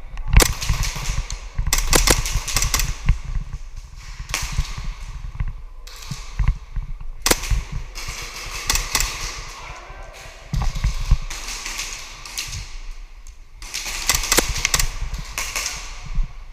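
Airsoft pistols firing: sharp shots, some single and some in quick strings of several, with pauses between them.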